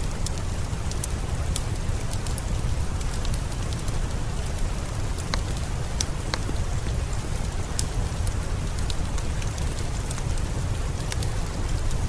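Steady rain with a deep low rumble, mixed with a fire crackling: scattered sharp pops over the rain.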